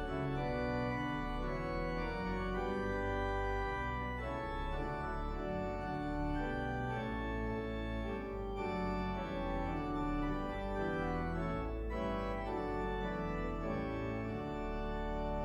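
Organ music: slow, sustained chords held and changing every second or so.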